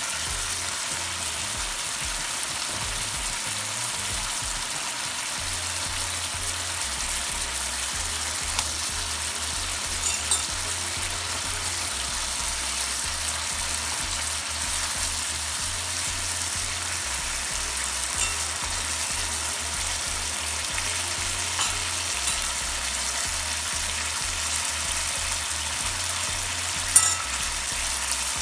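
A pan sizzling steadily as fried chicken leg pieces cook in spiced masala, with a few sharp clinks of a utensil against the pan, the loudest near the end.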